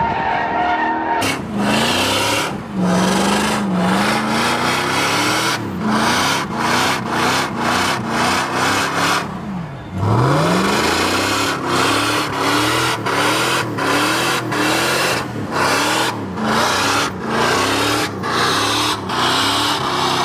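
A truck engine revving hard in quick repeated climbs, about two a second, with a bigger rev soon after the midpoint, over a harsh continuous hiss.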